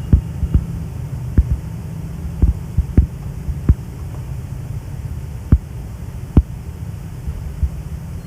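Moving passenger train heard from on board: a steady low rumble with irregular sharp knocks, typical of wheels running over rail joints.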